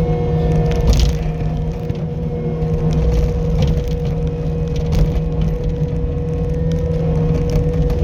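Skid steer loader engine running steadily with a high steady whine over a low rumble, and a few sharp cracks and knocks, one about a second in and another about five seconds in.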